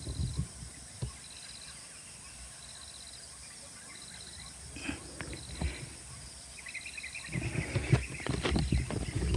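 Outdoor rural ambience: a short, high, pulsing insect chirp repeating about once a second, with a brief chattering bird call around the middle. Rustling and handling thumps close to the microphone grow louder over the last couple of seconds.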